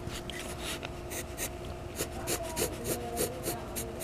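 Drawing tool scratching in quick sketching strokes, several a second, over a faint steady hum.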